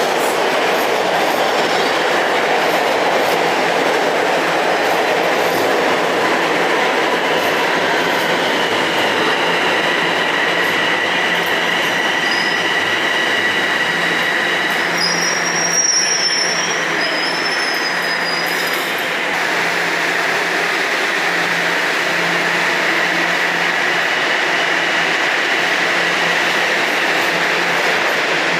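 Toronto Rocket subway train running at the station platform, a steady loud rumble of wheels on rail. High-pitched wheel squeal rises in and out, strongest about halfway through.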